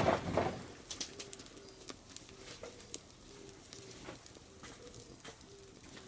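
A pigeon cooing in the background, a steady series of low coos coming in pairs about once a second. Scattered sharp clicks run alongside, with a louder knock or rustle right at the start.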